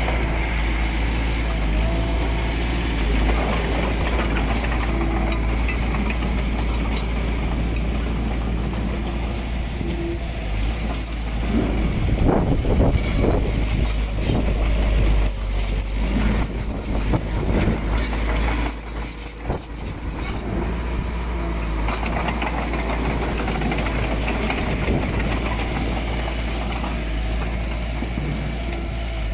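Diesel engine of heavy earthmoving machinery running steadily. It grows louder for a few seconds around the middle, with several knocks.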